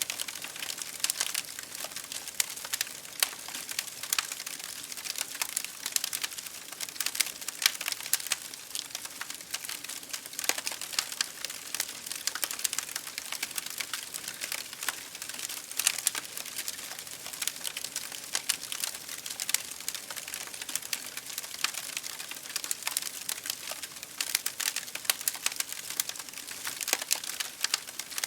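Wood fire crackling in a fireplace, with rain hitting a window pane: a steady hiss dotted with dense, irregular sharp snaps and pops.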